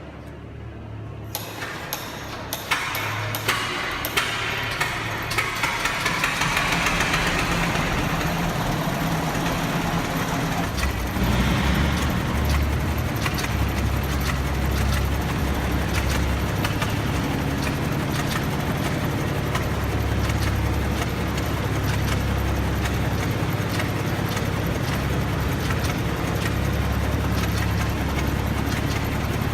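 International Harvester Titan 10-20 tractor's two-cylinder engine being started: a run of sharp pops and clicks, then about eleven seconds in it catches and settles into a steady, low, pulsing run.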